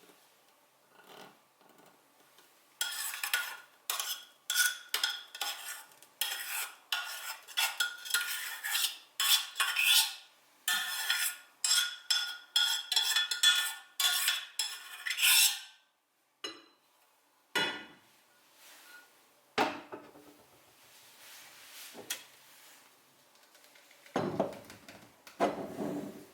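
A spoon stirring and scraping against cookware in quick, repeated ringing strokes for about twelve seconds, then a few separate knocks and clinks near the end.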